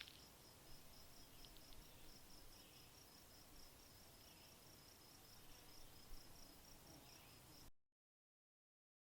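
Near silence: faint hiss with an insect chirping in a steady, regular high-pitched pulse. It cuts off to total silence near the end.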